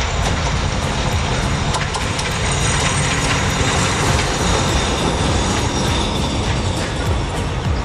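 A Bangladesh Railway diesel locomotive and its passenger coaches passing close by. The engine's steady note is heard over the first couple of seconds, then the coaches rumble past with clicks of wheels on the rails.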